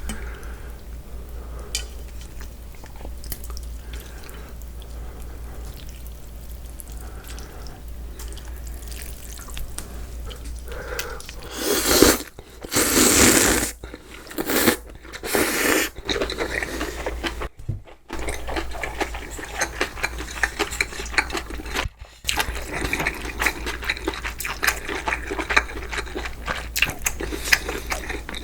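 Close-miked eating sounds: a person chewing and smacking, with a few loud slurps about halfway through, followed by dense crackly chewing.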